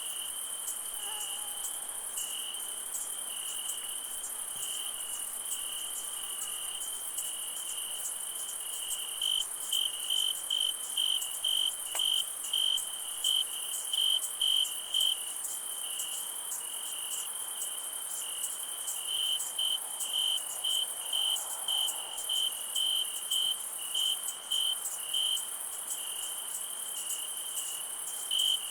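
Night chorus of crickets and other insects: a steady high hiss with one cricket's trill in the middle of it. About a third of the way in, the trill breaks into louder regular chirps, about two a second, which come in stretches and stop and start again near the end.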